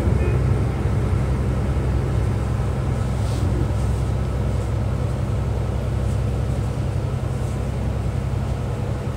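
Cabin noise inside an AKN LINT 54 diesel railcar under way: a steady low rumble from the diesel engine and running gear, with faint hiss over it.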